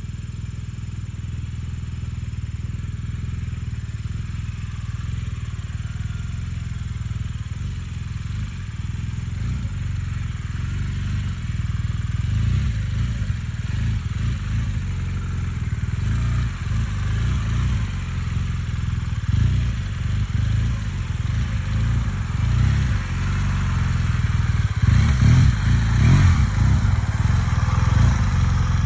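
BMW GS adventure motorcycle engine running at low revs with uneven throttle as it is ridden through tight turns around cones, growing louder over the last few seconds.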